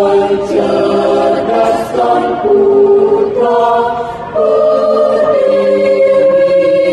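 Choir singing a cappella in sustained chords, moving through several chords in the first few seconds and then holding one long chord over the second half.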